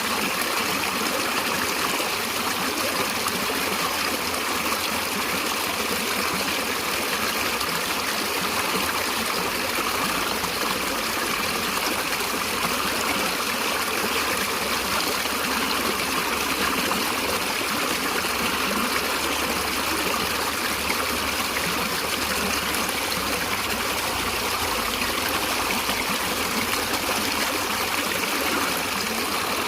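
Stream water flowing and trickling steadily, an even rushing sound without pauses.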